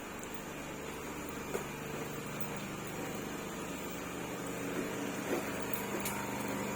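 Steady electrical hum of a three-phase MEMU electric train, made of several held tones that shift slightly about three seconds in, with a few faint clicks.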